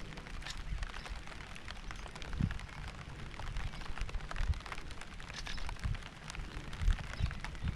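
Rain falling, with scattered individual drops pattering close by over a steady hiss, and an uneven low rumble underneath with a couple of louder low thumps.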